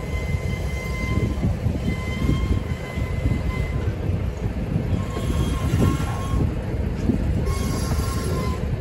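Freight train of covered hopper cars rolling slowly past, its wheels rumbling and clattering over the rails, with a thin high wheel squeal that comes and goes.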